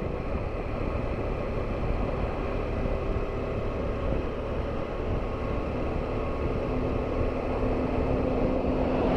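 Motorcycle on the move: the engine running steadily under a low rumble of wind and road noise on the microphone.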